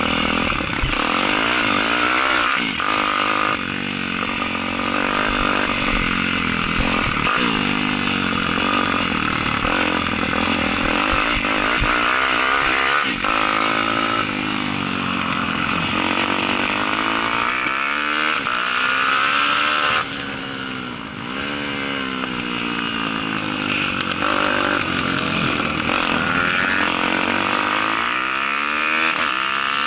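Pit bike's four-stroke Daytona 190 engine revving hard, its pitch rising and falling repeatedly as the bike accelerates and backs off through the corners. About two-thirds of the way through, the engine drops off the throttle and the revs fall briefly before climbing again.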